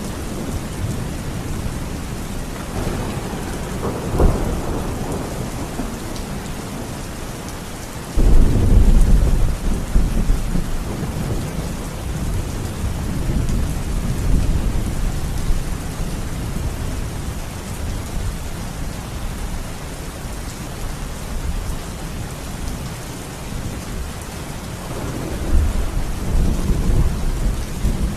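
Steady rain with rolling thunder: a rumble about three seconds in, a louder one that breaks suddenly about eight seconds in and rolls away over several seconds, and another near the end.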